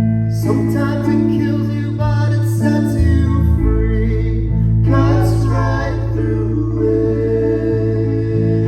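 Live band performance: singing over sustained bass notes that shift every second or two.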